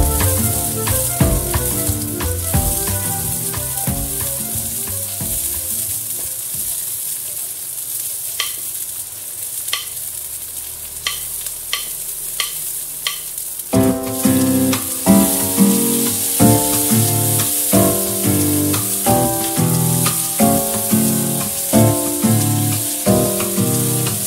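Garlic and sliced red onion sizzling in hot oil in a non-stick wok, stirred with a slotted spatula that clicks against the pan several times in the quieter middle stretch. Background music plays at the start, fades out, and comes back louder a little past halfway.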